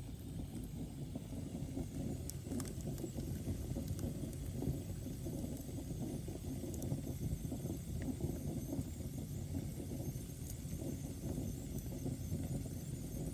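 Wood fire burning in a fireplace: a steady low rumble of flames with a few faint, scattered crackles.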